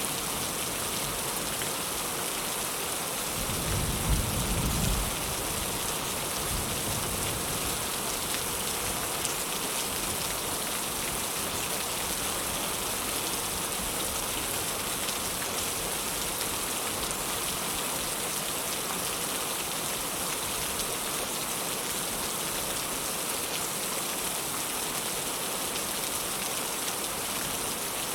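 Heavy rain falling steadily, with a short low rumble of thunder about four seconds in.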